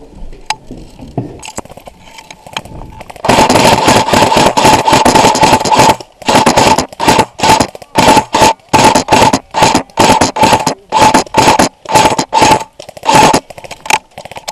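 Electric airsoft gun firing close to the microphone: a sustained full-auto burst of about three seconds with a steady gearbox whine, then a rapid string of short bursts, two or three a second, until near the end.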